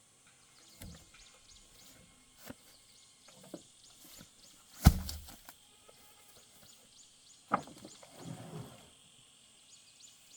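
A few sharp knocks, the loudest about five seconds in and another about seven and a half seconds in, over faint, repeated high chirping.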